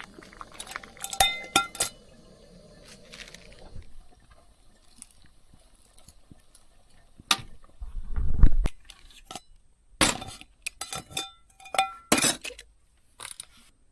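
Cookware clinking: a utensil knocking against a metal pot and dishes in scattered strikes, some leaving a short ringing tone. A louder, dull low thump comes about eight seconds in.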